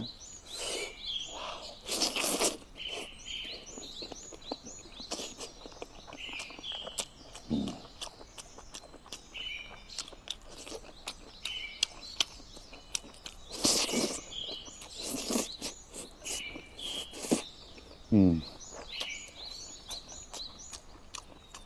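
Eating sounds, with brief clicks and louder smacks and slurps here and there, against small birds chirping repeatedly in the background.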